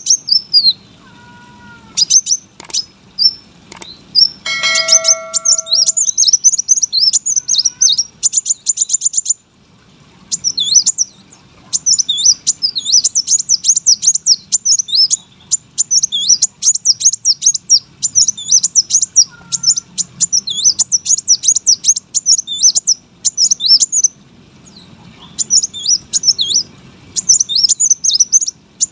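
Kolibri wulung sunbird singing a fast, high twittering song in long runs broken by short pauses. A brief ringing tone sounds about four and a half seconds in.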